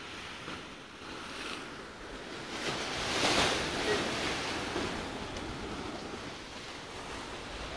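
Sea surf washing in with wind noise, the rush swelling to its loudest about three seconds in and then easing off.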